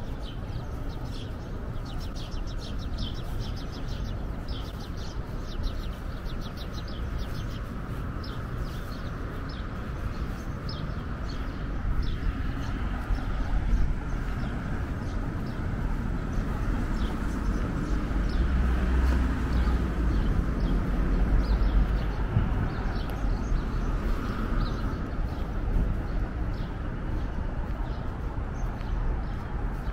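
Small birds chirping over and over above a steady low rumble of city traffic; the rumble swells for a few seconds past the middle.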